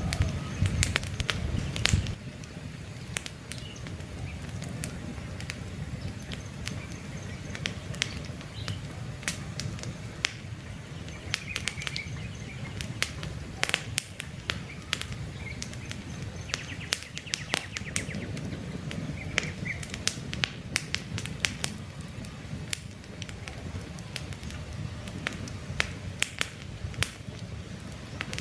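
Campfire crackling: irregular sharp pops and snaps from the burning wood over a steady low rumble, louder for the first couple of seconds. Birds chirp faintly in the background a few times.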